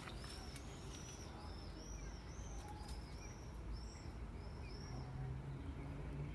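Small birds chirping, a dozen or so short, high arched notes in quick succession.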